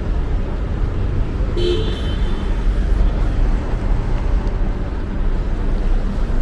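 Steady road-traffic rumble, with one short car-horn toot about one and a half seconds in.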